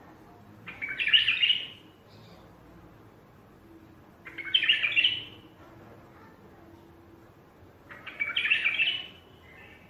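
Wild bulbul singing: three short, warbled song phrases of about a second each, roughly three and a half seconds apart.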